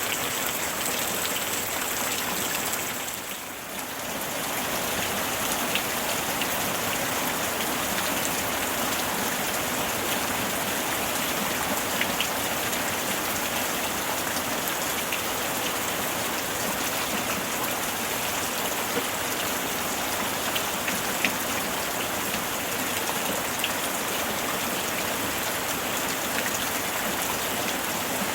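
Steady summer rain falling on a surface, a dense even hiss with occasional distinct drop ticks. The level dips briefly a few seconds in.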